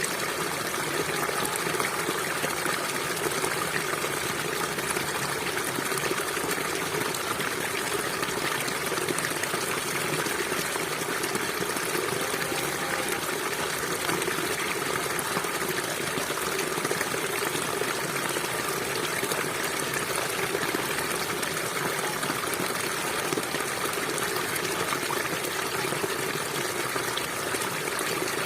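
Steady, continuous sound of a small stream flowing and gurgling over rocks.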